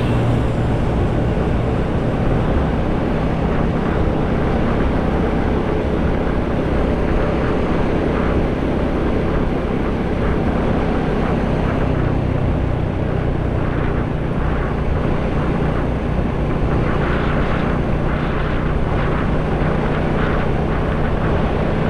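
Motorcycle engine running steadily while riding along a road, with wind and road noise on the helmet-mounted camera microphone.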